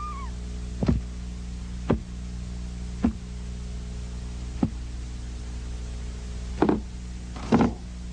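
A series of six short, dull knocks, irregularly about a second apart and louder near the end, over a steady low hum.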